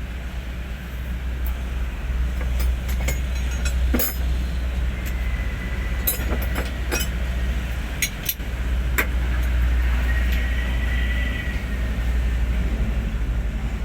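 Hino 500 truck's diesel engine running steadily with a low drone, with scattered clicks and rattles and a faint thin whistle that comes and goes twice.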